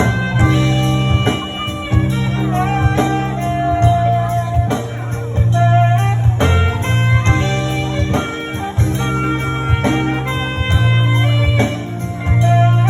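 Live band music on a stage, with an electric guitar playing melodic lines over a heavy, steady bass.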